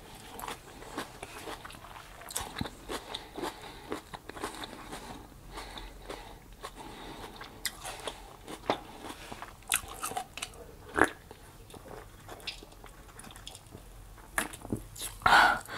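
Close-up chewing of crisp romaine-lettuce tacos with fried onions: many small irregular crunches and wet mouth sounds. Near the end, a few louder gulps as she drinks from a can.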